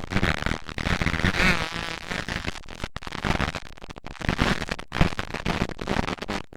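Several motocross dirt bike engines revving and running hard, their pitch rising and falling as they race and change throttle, with the sound briefly cutting out a few times.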